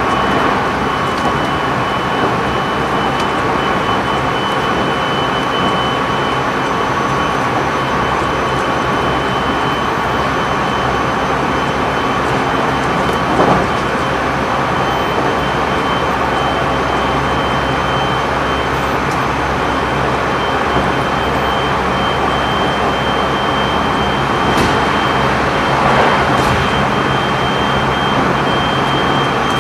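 Running noise inside a JR Central 373 series electric motor car at steady speed: wheels rumbling on the rails under a steady motor hum with a few high whining tones. About halfway through, a short rush of sound as a train passes on the other track.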